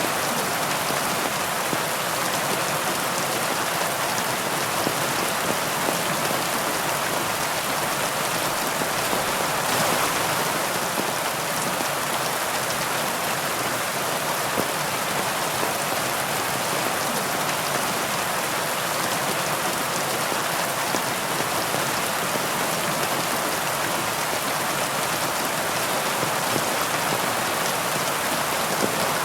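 Heavy rain falling steadily, an even wash of dense raindrops swelling slightly about ten seconds in.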